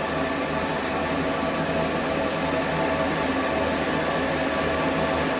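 Electric suction pump running steadily after being started and primed, a loud continuous whir with a steady hum.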